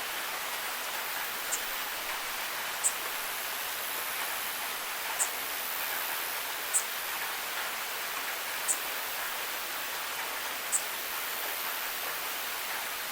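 Steady rain falling, an even hiss, with a sharp high tick about every two seconds.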